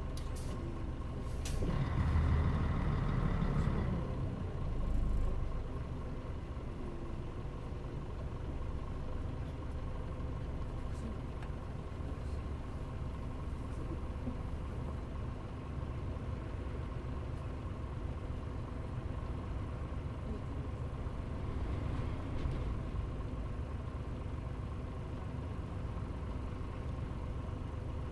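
Interior sound of a Mitsubishi Fuso Aerostar city bus (KL-MP35JM) running. A couple of sharp clicks and a louder surge for a few seconds near the start, which fits an air-brake release, then the engine runs steadily.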